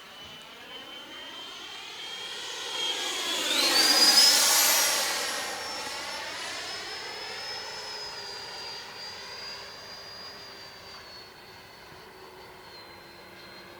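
Electric ducted-fan RC jet, a Freewing J-10 with a 90 mm fan, passing by in flight. Its high fan whine swells to a peak about four seconds in, drops in pitch after the pass, and fades away.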